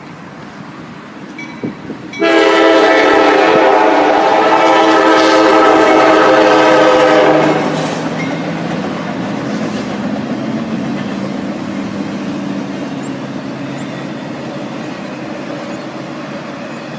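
Norfolk Southern locomotive horn sounding one long blast, starting about two seconds in and lasting about five seconds, then the train rumbling steadily past.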